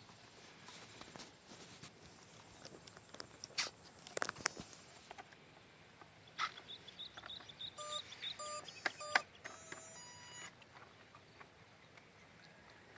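Quiet rural outdoor ambience with a steady high-pitched whine throughout, a few sharp clicks, and a run of short beeps or chirps about seven to ten seconds in.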